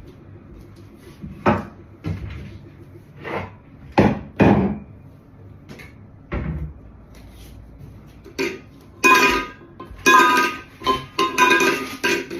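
A cat tapping its food bowl, making irregular single knocks a second or two apart, then a quicker run of ringing clatters in the last few seconds. It is impatient for its food.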